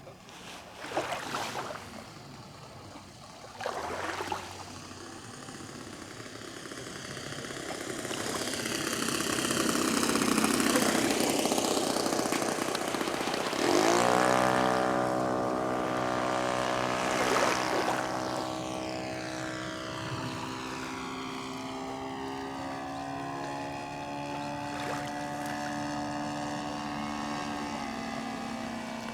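Radio-controlled floatplane's Saito FG-11 four-stroke gasoline engine and propeller running in flight. The sound swells toward the middle, then settles into a steady droning note.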